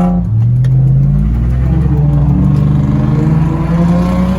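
Truck engine accelerating through the gears: its pitch climbs, drops at each upshift, then climbs again, about three shifts in all.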